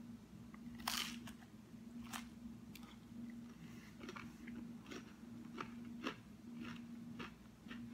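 A person biting into and chewing a very crispy microwaved flatbread crust: a sharp crunch about a second in, another just after two seconds, then a run of fainter crunches while chewing. A steady low hum runs underneath.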